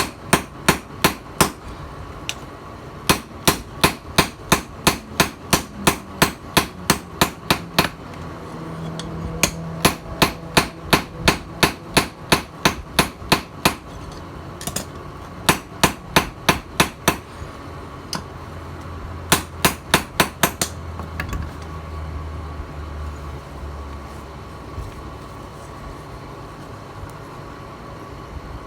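Hammer forging a steel tiller blade, striking about three times a second in runs separated by short pauses. The strikes stop about two-thirds of the way through, and a steady hum continues under them and after them.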